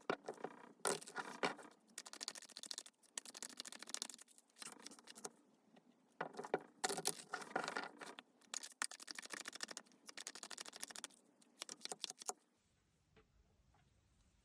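Tarot cards being shuffled by hand: repeated bursts of sliding and flicking card noise that stop about twelve seconds in.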